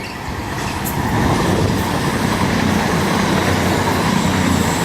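CrossCountry Class 221 Super Voyager diesel-electric multiple unit coming through the station, its underfloor diesel engines giving a steady low drone with wheel and rail noise. It grows louder over about the first second, then holds steady.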